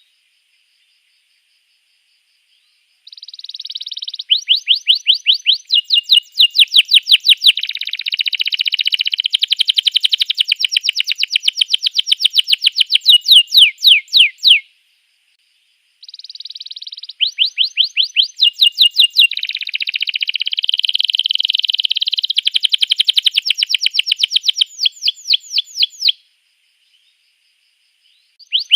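Domestic canary singing in two long phrases of rapid, repeated high trills and chirps, each about ten seconds, with a short silence between them and another near the end.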